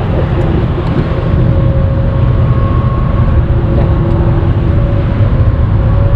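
Ford F-550 tow truck with the 6.7 diesel, driving on the road, heard from inside the cab: a steady low drone of engine and road noise with a faint steady whine.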